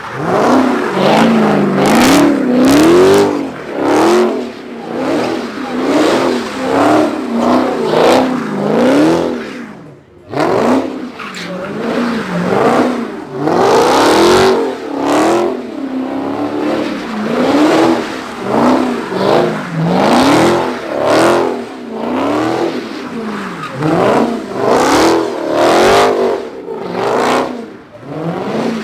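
A car engine revving hard, its pitch climbing and falling again about once a second, over the hiss of spinning tyres, as the car drifts with its rear end stepping out. The sound drops away briefly about ten seconds in, then the revving picks up again.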